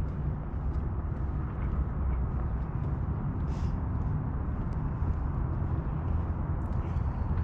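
Steady low outdoor rumble, even in level, with a few faint short ticks above it.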